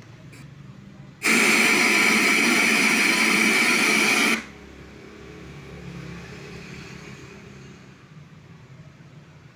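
A CRT TV speaker gives out a loud hiss-like static noise for about three seconds, cutting in and out abruptly, over a low steady hum. This unclear sound matches the TV's sound fault.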